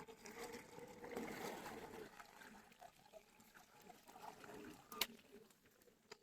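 Faint water lapping and trickling against a boat hull, with a sharp click about five seconds in.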